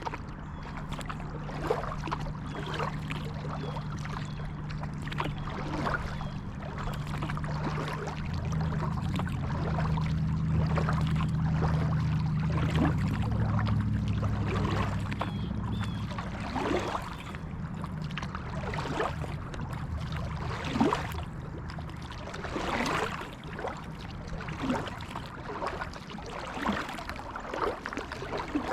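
Kayak paddling: the paddle blades dip and pull through the water, with splashes and drips every second or so. A low steady hum runs underneath and swells for several seconds in the middle.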